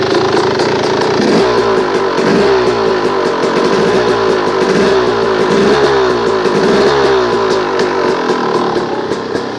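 2009 KTM 300 XC-W dirt bike's two-stroke single-cylinder engine running at a steady idle, with a few slight swells in engine speed.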